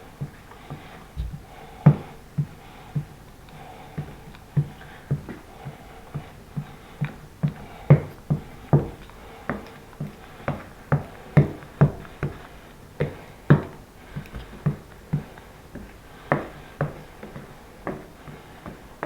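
An irregular series of short, light knocks and taps, about one to two a second, some sharper and louder than others.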